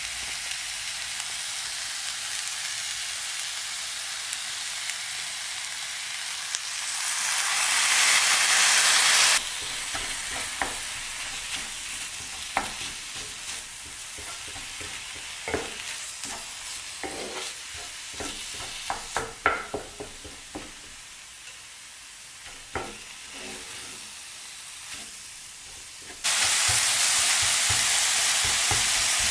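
Ground beef frying in a pan with onions and eggplant, a steady sizzle, with a utensil scraping and clicking against the pan as it is stirred. The sizzle grows louder a few seconds in, drops abruptly, and comes back loud near the end.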